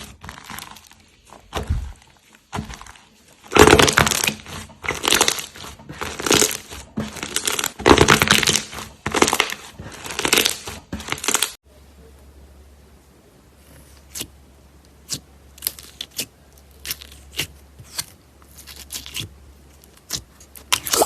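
Slime being squeezed and pressed by hand, giving dense crunchy crackling squishes for about the first half. Then the sound changes abruptly to a quieter stretch of sharp separate clicks and pops, a few a second, over a faint low hum.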